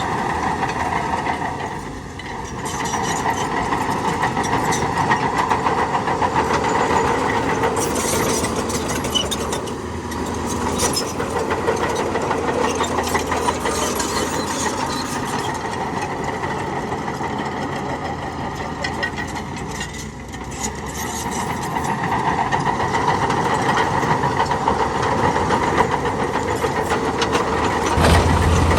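Heavy diesel earthmoving machinery engine running steadily under changing load, easing off briefly about two seconds in and again around twenty seconds, with a sudden louder, deeper rise right at the end.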